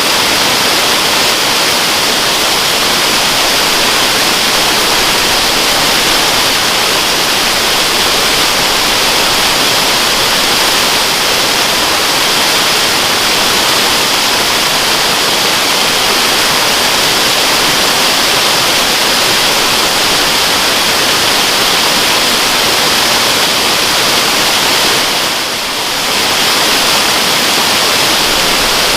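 Waterfall pouring steadily, a dense, even rush of falling water with a brief slight dip in level near the end.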